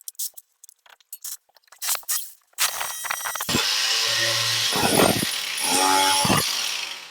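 Scattered sharp clicks and knocks, then about two and a half seconds in an angle grinder starts up and runs loud and high-pitched in two spells, cutting the steel angle iron set in the brick wall.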